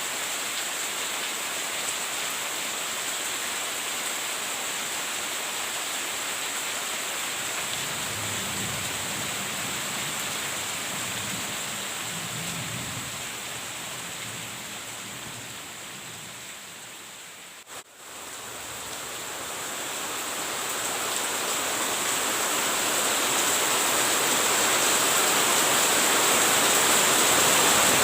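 Steady rain falling, with a low rumble of thunder about a third of the way in. The rain fades down to a brief dip about two-thirds through, then swells back up louder.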